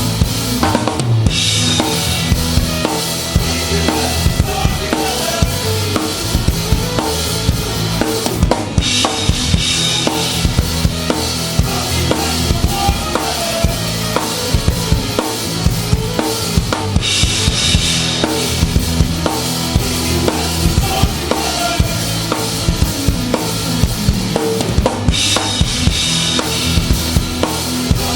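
A live band playing an instrumental passage without vocals, the drum kit up front with steady kick and snare hits over bass and guitar. The cymbal sound shifts every eight seconds or so as the sections change.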